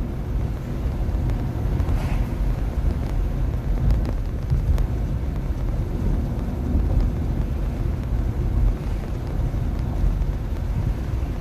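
Steady road and tyre rumble with some wind noise, heard from inside the cabin of a 2021 Nissan Leaf electric car driving uphill.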